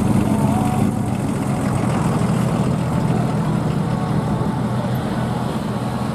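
A motor vehicle engine idling steadily, a low hum.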